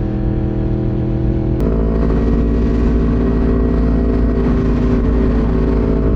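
Sport bike engine running steadily at highway speed, with wind and road rush; about a second and a half in the engine note changes abruptly with a click, then holds steady again.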